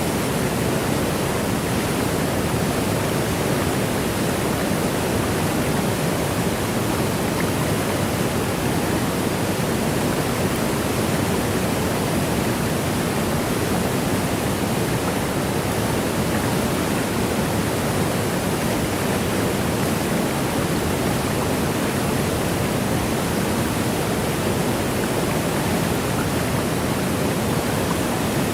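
Waterfall: a steady, unbroken rush of falling water, even throughout, with most of its weight low in the range and no separate splashes or other events.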